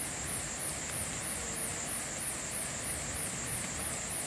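An insect calling in a high, pulsing trill, about three pulses a second, over the steady hiss of drizzling rain.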